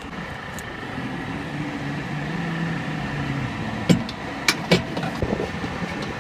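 Steady machinery hum, with three sharp clicks and knocks about four to five seconds in as parts are handled during the exhaust fan's reinstallation.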